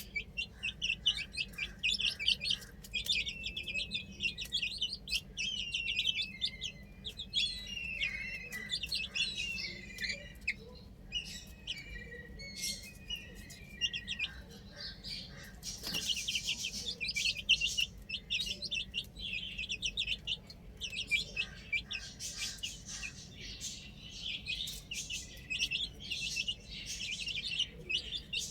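A group of baby chicks peeping constantly: many short, high chirps overlap, with a few longer falling calls about a third of the way in.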